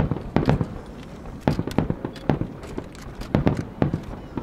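Fireworks bursting: a rapid, irregular series of sharp bangs and crackles, several a second.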